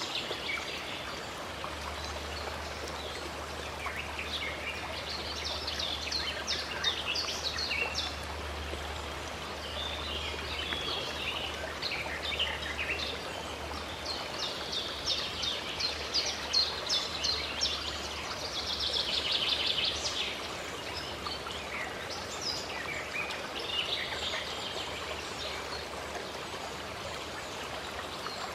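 Running water from a stream, a steady rush, under many songbirds chirping and trilling at once.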